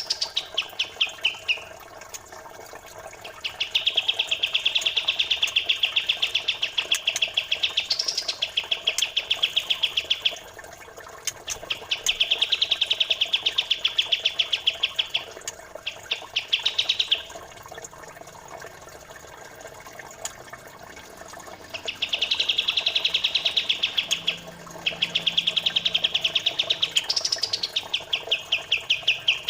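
A songbird gives long trains of rapid, densely packed chirps, about ten a second. The trains come in runs of several seconds, some ending in a short rising note, with brief pauses between them, over a faint trickle of flowing water. This is a dense, fast masteran song recording played to train competition birds.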